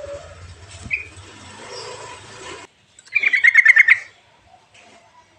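Recorded birdsong from a yellow-vented bulbul (trucuk) lure track: faint short calls over hiss, then about three seconds in a loud, rapid bubbling trill of about a dozen notes lasting about a second.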